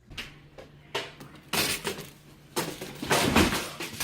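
A series of irregular knocks and clatters, about five in all, the loudest about three seconds in, over a steady low hum.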